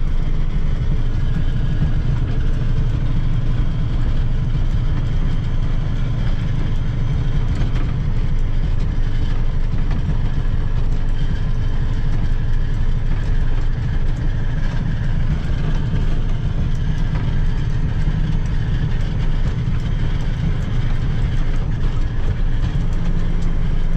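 Pickup truck driving along a dry, powdery dirt road: steady engine drone and tyre noise on the freshly graded surface.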